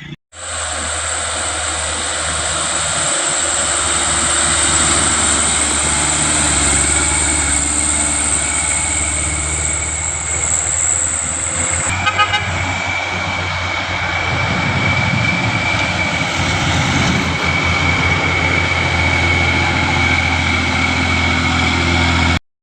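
Truck running steadily with a low engine hum and a high steady whine that sets in about halfway through.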